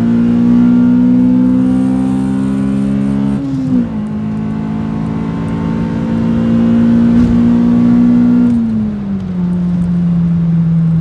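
Honda B16A2 inline-four with a cat-back exhaust, heard from inside the cabin while cruising under steady throttle. It holds a steady engine note that dips briefly about three and a half seconds in, then drops to a lower steady pitch near the end as the throttle eases.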